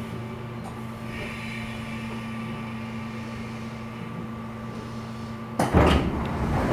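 Cabin of a 415 series electric train car slowing to a stop, then humming steadily from its onboard equipment, with a faint high whine about one to three seconds in. Near the end a sudden loud rushing noise cuts in.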